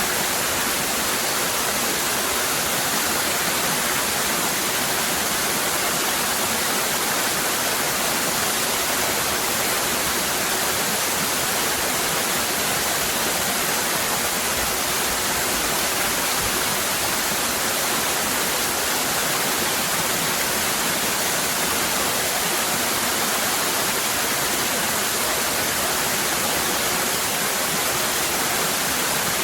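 Cascading waterfall: a steady, even rush of falling water with no breaks or changes.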